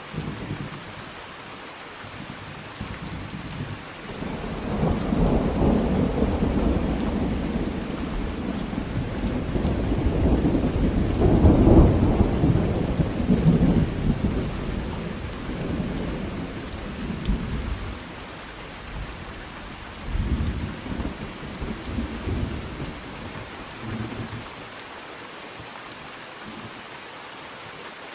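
Thunderstorm: steady rain with a long roll of thunder that swells from about four seconds in, peaks near the middle and dies away, followed by a shorter, weaker rumble a few seconds later.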